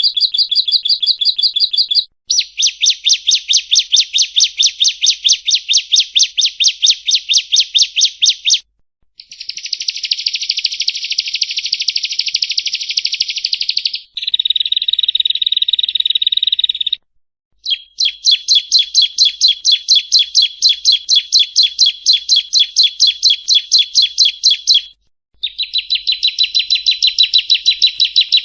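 Yellow-bellied prinia (prenjak rowo) song: long runs of rapid, evenly repeated high chirping notes, about six or seven a second. They come in several phrases of a few seconds each, with brief pauses between.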